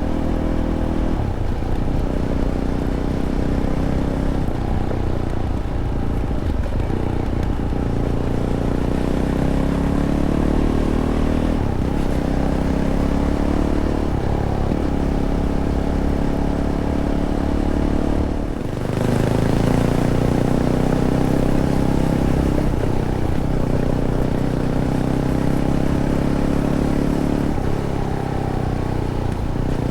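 Fantic Caballero 500's single-cylinder engine through its stock Arrow exhaust under way on a trail, its pitch rising and falling every few seconds as the rider works the throttle and gears. Just before the two-thirds mark it drops off briefly, then pulls harder and louder.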